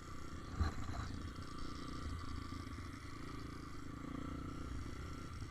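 Motorbike engine running steadily at low revs, with a couple of light knocks about half a second and a second in.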